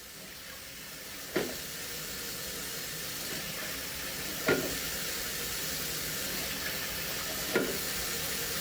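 A steady sizzling hiss that swells over the first second or two and then holds, broken three times by a sharp knock about three seconds apart.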